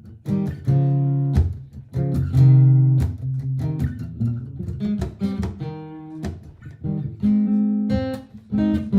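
Martin GPCPA4 acoustic-electric guitar played without singing: strummed chords and picked single notes ringing out, improvised over a looped guitar part.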